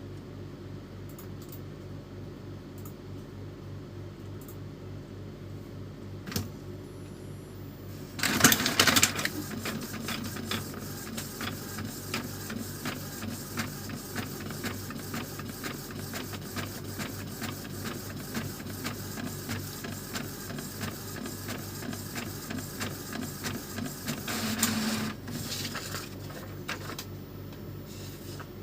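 Epson L310 inkjet printer running a test print: a single click about six seconds in, a loud burst about two seconds later, then rapid, even mechanical ticking for most of the rest, with a second louder burst near the end before the ticking stops. The printer is running normally, without the earlier fault.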